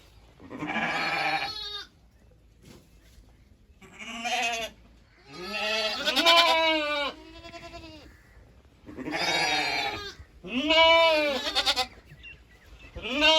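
Goat bleating: about six separate wavering calls, each a second or so long, with short pauses between them.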